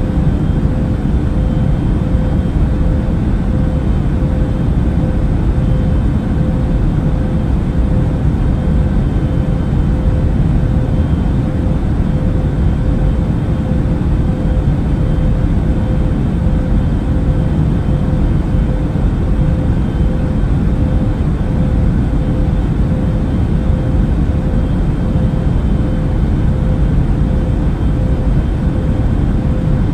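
Steady airplane cabin noise in flight: an even, deep rush of noise with a faint steady hum running through it, unchanging throughout.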